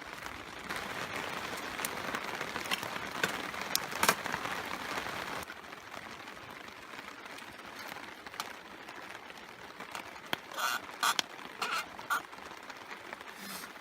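Rain falling steadily on a tarp, with scattered sharp clicks and crackles. The hiss is louder for the first five seconds or so, and a handful of short knocks come about ten to twelve seconds in.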